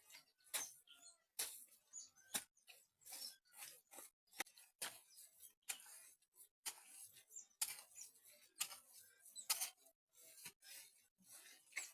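Mud for plastering a mud house being mixed and worked, heard as a run of irregular short sharp sounds, about two a second.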